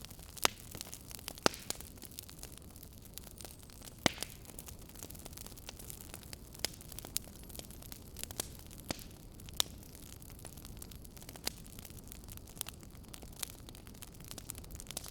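Campfire burning with a low steady hiss and irregular sharp crackles and pops, a few louder snaps standing out among them.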